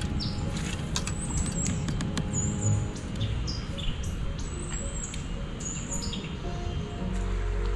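Small birds chirping: short, high, downward-slurred notes repeated again and again, over a low rumble with scattered clicks. Background music comes in near the end.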